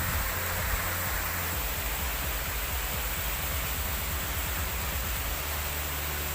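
Heavy rain with strong wind: a steady, even hiss of rain with a low rumble underneath.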